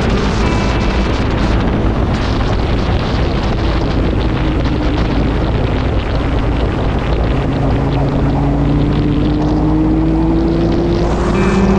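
Motorcycle on the move: heavy wind rush on the microphone with the engine's hum underneath. The engine's pitch climbs gradually over the last few seconds as it accelerates.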